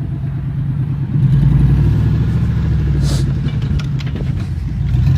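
An engine running steadily, getting louder about a second in. A short hiss comes about three seconds in.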